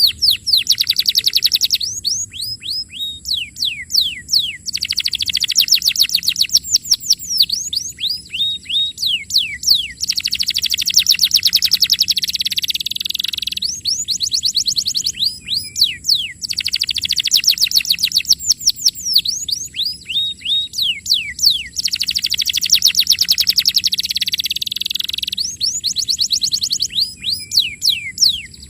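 Domestic canary singing continuously: long rapid buzzy trills alternating with quick series of sharply falling whistled notes, phrase after phrase. A steady thin high-pitched tone runs underneath.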